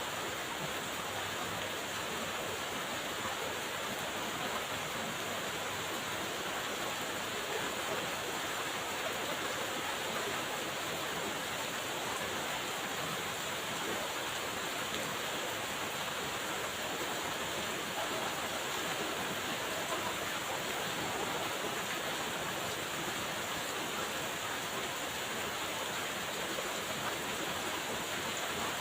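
Steady rainfall: an even, unbroken hiss of falling drops that holds at one level throughout.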